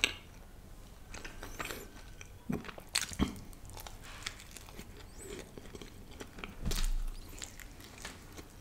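Close-miked biting and chewing of a slice of butter chicken pizza, with scattered sharp crunches from its dried-out outer crust.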